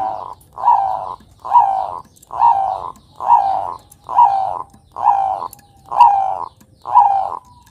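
Zebra dove (Bangkok-strain perkutut) cooing: a steady series of about nine rounded notes, roughly one a second, each ending in a short falling hook.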